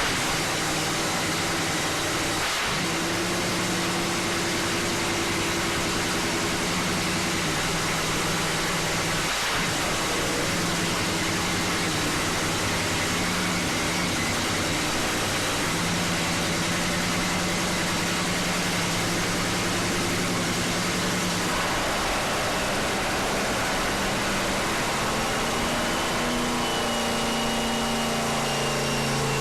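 Nitro funny car's supercharged V8 running during a warm-up, mostly at a rough idle, its pitch stepping up and down several times as the revs change.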